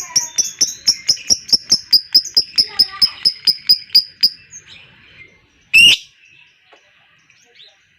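Lovebird giving its long 'ngekek' chatter: a fast, even run of sharp high chirps, about five a second, that stops about four seconds in. One loud harsh screech follows shortly after.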